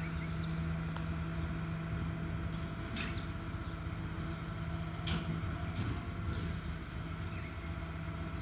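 Garbage truck's engine running steadily, with a few clicks and knocks in it.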